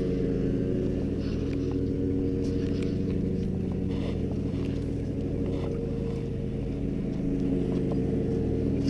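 A steady motor hum of several fixed tones, with a few faint clicks over it.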